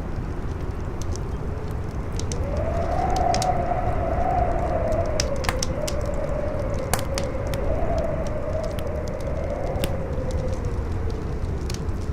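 Howling wind, a wavering whistle that rises in pitch about two seconds in and then slowly sinks, over a low rumble, with the sharp pops and crackles of a wood fire scattered through it.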